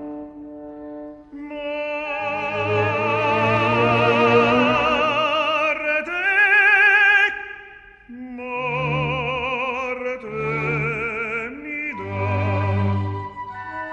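Opera music: a singer with strong vibrato over instrumental accompaniment, rising to a loud held high note about six to seven seconds in.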